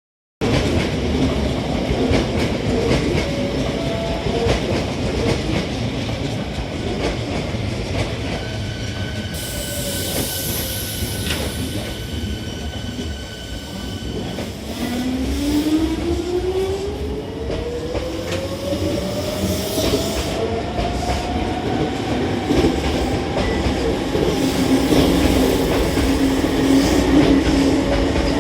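Hankyu 3300-series electric train pulling out of a station: a steady high tone sounds for several seconds, then the traction motor whine rises smoothly in pitch as the train accelerates, over continuous rumble and rail clatter.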